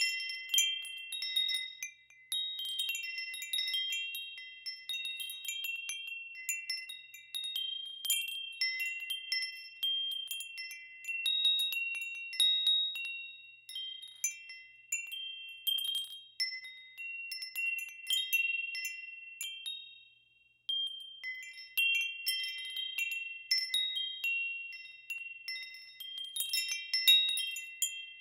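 Wind chimes ringing, struck at uneven intervals so that several high tones overlap and die away, with a short lull about twenty seconds in.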